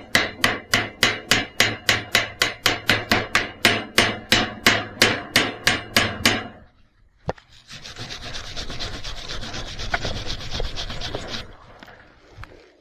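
Rhythmic scraping strokes on metal, about four a second, for some six seconds. This is typical of cleaning a stick weld by hand. A single click follows, then about four seconds of steady rasping that fades away.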